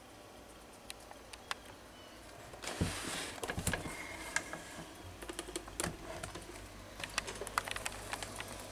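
Handling noise from a plastic-and-metal table fan being picked up and turned over: scattered light clicks and taps, then from about three seconds in a busier run of clicks, knocks and rustling. The fan is not running.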